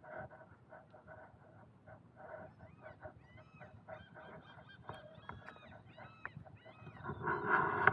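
Birds calling: a rapid series of short repeated calls, some sliding in pitch, with a louder stretch of calls near the end.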